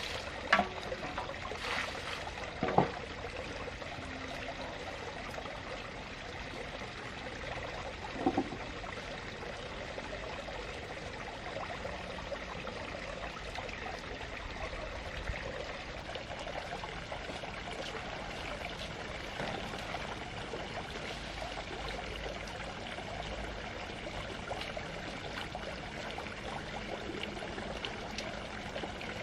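Water running or pouring steadily, with a few short knocks near the start and one about eight seconds in.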